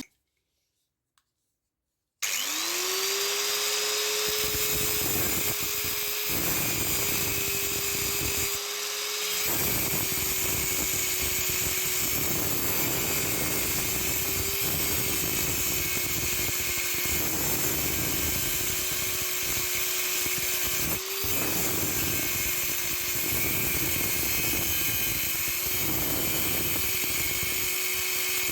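A handheld power tool's motor spins up about two seconds in, then runs at a steady high whine, with a rough working noise that swells and eases throughout.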